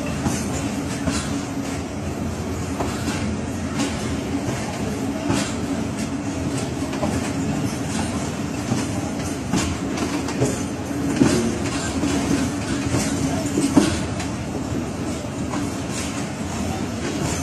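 Passenger train pulling out of a station, heard from an open coach door: wheels clicking irregularly over rail joints over a steady low hum of the running train.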